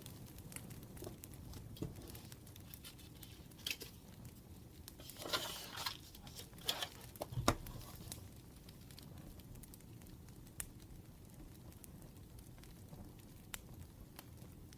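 Firewood crackling, with scattered small pops and ticks. About five to eight seconds in there is a louder rustle and crinkle, then a few sharp clicks and a light knock.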